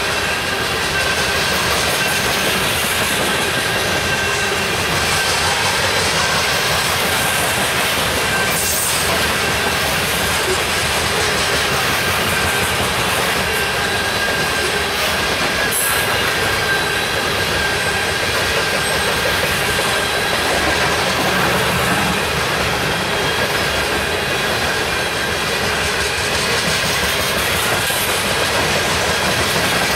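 Union Pacific coal train cars rolling past close by: steady steel-wheel-on-rail noise with a thin, steady high squeal from the wheels and a few faint clanks along the way.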